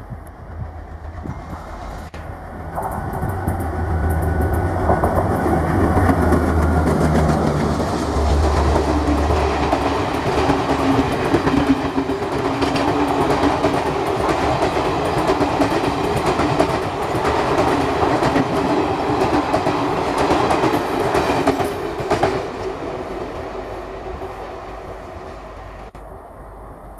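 WDM-class diesel locomotive passing at speed, its engine's deep rumble building and loudest in the first third, followed by the long rake of coaches clattering rhythmically over the rail joints. The sound fades away from about three-quarters of the way through as the train recedes.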